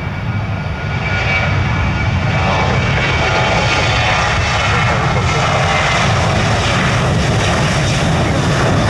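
Jet airliner's engines running loud close by, a deep rumble with a wide rushing roar that swells about a second in and then holds steady.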